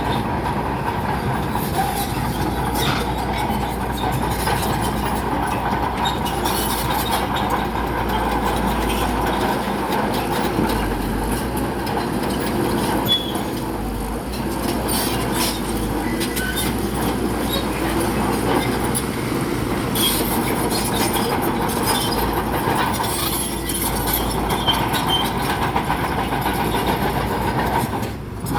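Bulldozer's diesel engine running steadily under work, with scattered metallic clanks and knocks from its steel tracks.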